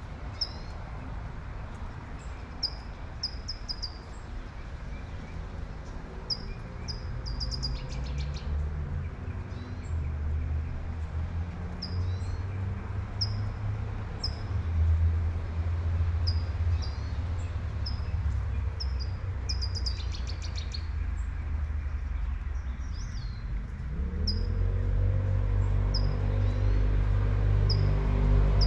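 Small birds chirping in short repeated calls over the hiss of light rain and a low traffic rumble. In the last few seconds a vehicle engine grows louder, its pitch rising.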